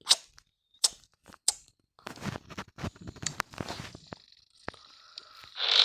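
Handling noise close to the microphone: a few sharp clicks, then rustling and crinkling with more clicks, and a short louder hiss near the end.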